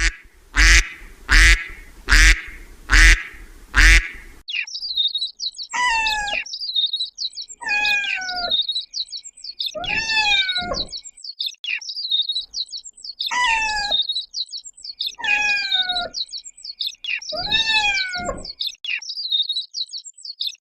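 Ducks calling: five loud quacks about a second apart. Then a steady stream of high-pitched peeping, with a longer falling call roughly every two seconds.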